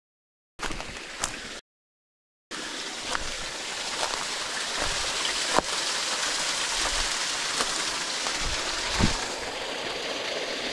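Running water, a steady rushing and trickling as a small flow of water runs down through a rock crevice. In the first two and a half seconds the recording cuts out to complete silence several times.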